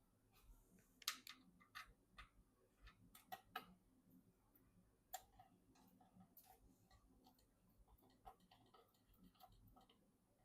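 Faint, irregular clicks and light taps of computer parts and plastic or metal hardware being handled during assembly, with the sharpest click about a second in.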